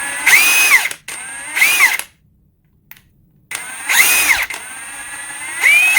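Ridgid High Torque 18V cordless impact wrench spinning freely with no load on speed 3, in four short trigger pulls. Each time the motor whine climbs in pitch and drops back instead of holding a steady speed: the choppy, non-progressive trigger.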